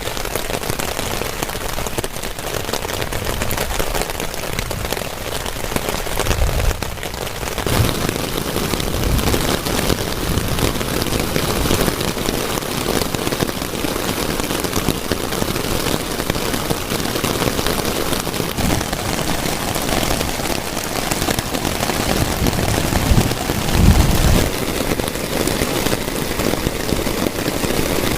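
Heavy rain drumming steadily on a tent, a dense patter of drops that grows fuller about a quarter of the way in. A brief low rumble near the end is the loudest moment.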